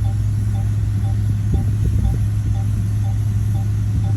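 Heavy earthmoving machine's diesel engine running steadily with a deep, even hum, and a faint regular ticking about twice a second over it.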